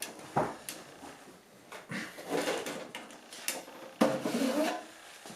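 Scattered clicks and knocks with a louder stretch of scraping and rattling about four seconds in, as electronic equipment and its option cards are handled.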